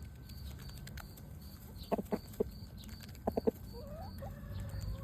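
Chicken clucking: two quick runs of three short clucks, about two seconds and three and a half seconds in, followed by a faint rising call.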